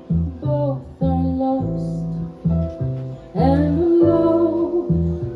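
Small jazz band playing live: a woman singing a slow, gliding melody over separate plucked double-bass notes.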